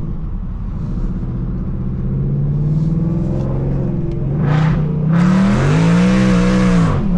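2024 Ford Mustang GT's 5.0-litre V8, fitted with Kooks headers, running loud: a steady drone, a short rev about four and a half seconds in, then a harder rev that climbs and falls back near the end.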